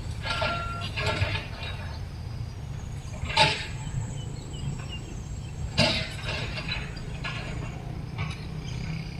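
Freight train rolling by with a steady low rumble and irregular metallic clanks and knocks from the wagons; the two loudest clanks come about three and a half and six seconds in.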